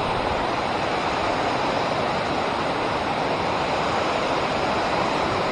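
Steady rush of water pouring over a river dam, a constant even roar.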